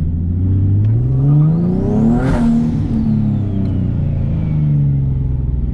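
Turbocharged Nissan 370Z's 3.7-litre V6 accelerating, its revs climbing for about two seconds, then falling away, with a brief burst of noise at the peak. A thin turbo whistle rises and falls with the revs.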